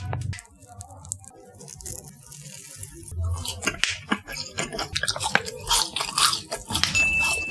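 Close-up eating of latiao, spicy Chinese gluten strips: irregular biting, chewing and mouth smacks, sparse at first and busier from about halfway.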